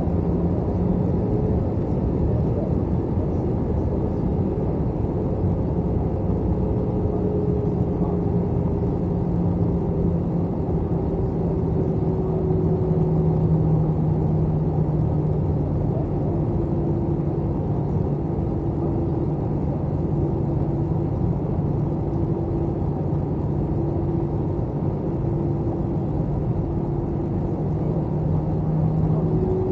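Steady cabin noise of an Airbus A321 airliner: engine and airflow rumble with a constant low hum. About halfway through, a higher tone starts pulsing roughly every second and a half.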